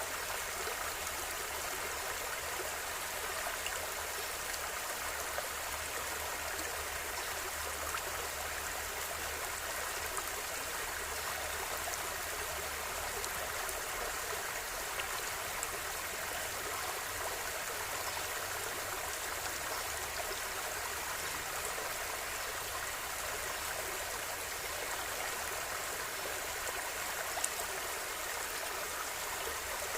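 River water flowing steadily over stones, an even rushing with small splashes and gurgles.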